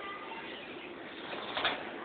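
Peach-faced lovebirds calling: a few faint short chirps, then one sharper, shrill call past the middle.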